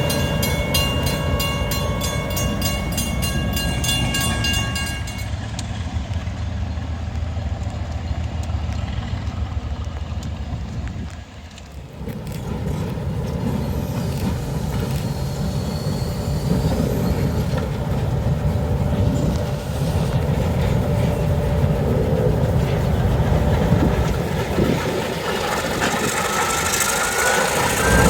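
A freight train rolling past, its wheels and cars rumbling over the rails, with a short drop in level about eleven seconds in.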